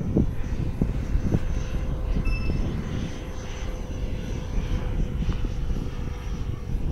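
Scratch-built RC model Boeing 737 MAX 7 jet airliner in flight, its engines giving a steady whine.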